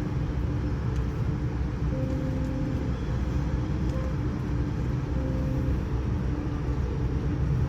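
Steady low rumble and hum inside a Boeing 787-9 passenger cabin, with a few faint held tones that shift pitch every second or two.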